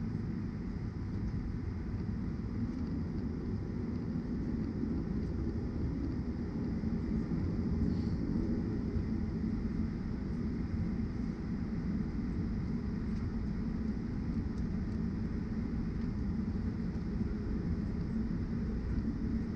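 Cabin noise of a Boeing 737-900ER taxiing: a steady low rumble from its CFM56-7B engines at low thrust, with a faint steady high whine.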